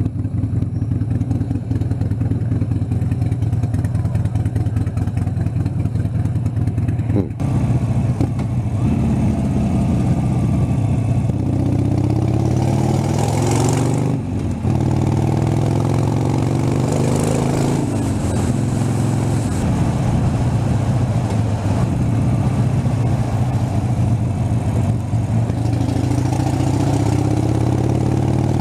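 Harley-Davidson Sportster 72's 1200 cc air-cooled V-twin running while the bike is ridden. It accelerates several times, the pitch rising through each gear, with short breaks at the shifts about seven and fourteen seconds in.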